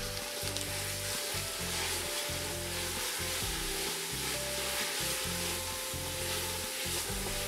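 Diced celery, onion and dried fruit sizzling steadily in a hot sauté pan while being stirred.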